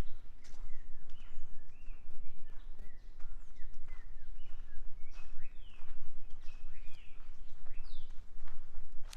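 Several birds singing and calling together: many short chirps and quick downward-sliding whistles, with occasional footsteps on a forest trail.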